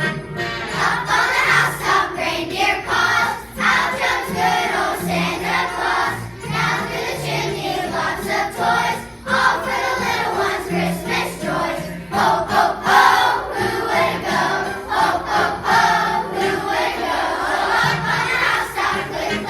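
A school choir singing a holiday song, with held low accompanying notes underneath.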